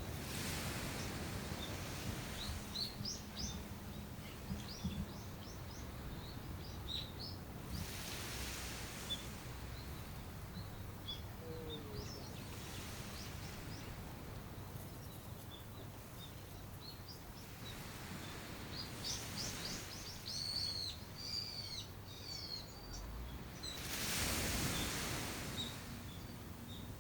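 Small birds chirping and calling in short bursts over a low steady outdoor rumble, with a broad hiss that swells and fades every few seconds.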